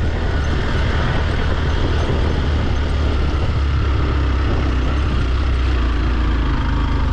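Motorcycle engine running steadily while riding: a low, even drone with a rushing hiss over it.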